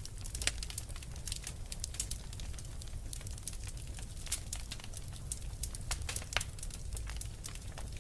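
Wood fire burning with irregular sharp crackles and pops, several a second, over a low steady rumble of the flames.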